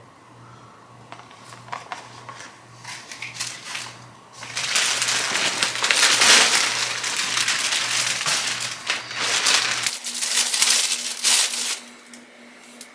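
Packaging being crinkled and crumpled by hand: a few light rustles and clicks, then a long stretch of loud crinkling from about four and a half seconds in that stops shortly before the end.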